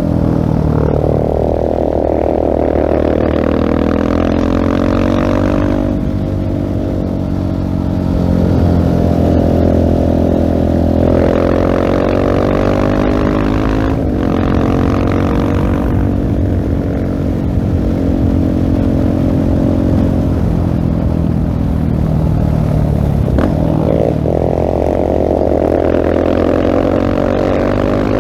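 2016 Husqvarna 701 Supermoto single-cylinder engine running through a LeoVince full-system exhaust under way. Its pitch climbs and drops back several times as the bike accelerates, shifts and rolls off the throttle.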